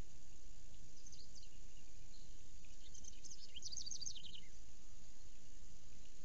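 High-pitched bird chirps: a few notes about a second in, then a quick run of short falling notes from about three to four and a half seconds in, over a steady outdoor hiss.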